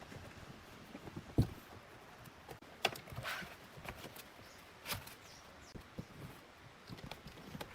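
Irregular knocks and taps of hand tools and parts being handled on a workbench, with a few sharper knocks and a brief scrape about three seconds in.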